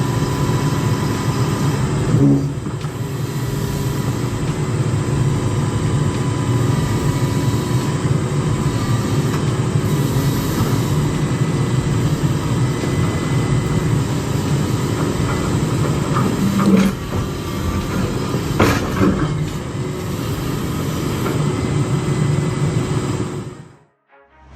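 Heavy hydraulic machine's diesel engine running steadily under load, with a thin steady whine over it. A few knocks and clanks come about two seconds in and twice more later. The sound cuts off suddenly near the end.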